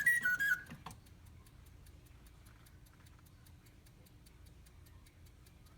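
The bellows-driven whistle of a Reuge mechanical singing bird stops just under a second in, as the birds pause between songs. After that the Reuge mechanical clock movement ticks steadily at about five ticks a second, with a faint low hum.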